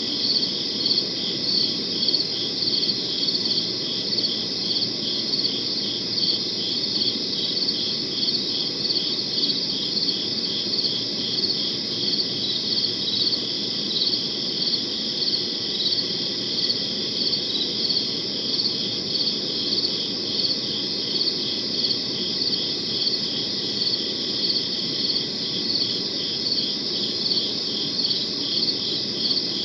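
Crickets chirping steadily in a rapid, even pulse, several insects overlapping, over a low, steady background noise.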